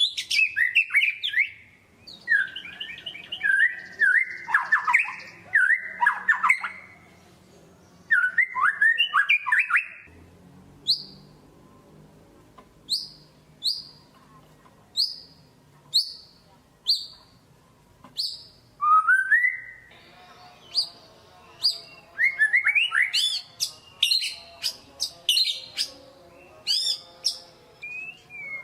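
White-rumped shama (murai batu) singing: loud, varied whistled phrases, then a run of about eight short rising whistle notes spaced a little over half a second apart, then a burst of fast, varied song near the end.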